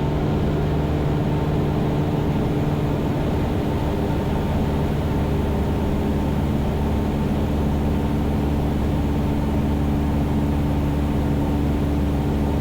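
Cessna 172's engine and propeller droning steadily in cruise flight.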